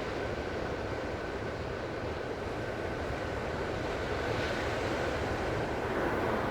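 Calm ocean surf washing ashore as a steady rushing wash, swelling a little about two-thirds of the way through.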